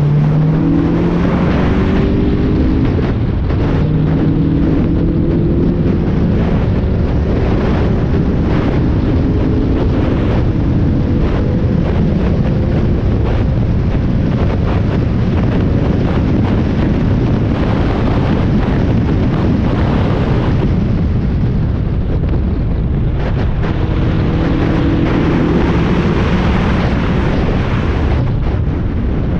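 Spec Miata race car's inline-four engine running hard on track, heard onboard under heavy wind buffeting and road noise. Its note steps and slides in pitch with throttle and gear changes, and climbs again near the end.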